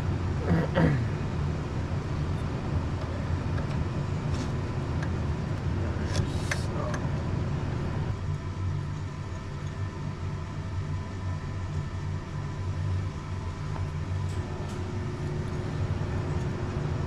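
Steady low machine drone, like an engine running, with a few brief knocks and clinks about a second in and again around six seconds in.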